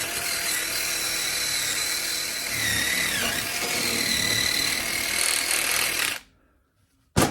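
Power wire brush running against the pedal assembly base of a 1972 VW Super Beetle, scouring off rust and grime. Its motor whine sags briefly under load about three seconds in, then cuts off suddenly about six seconds in. A single sharp click follows near the end.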